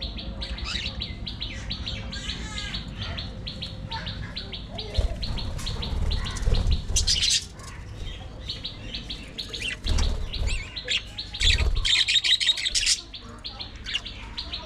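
Budgerigars chattering in a rapid stream of chirps, rising to louder, shrill bursts about halfway and again near the end, with a few dull low thumps.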